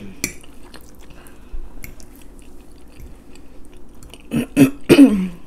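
Chewing and small wet mouth clicks of someone eating spaghetti. Near the end comes a short, louder voiced sound, like a hum, falling in pitch.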